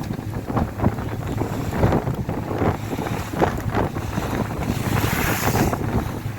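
Wind buffeting the microphone on a moving boat, over a low rumble and the rush of sea water. A louder hissing surge comes about five seconds in, like a gust or a splash of spray.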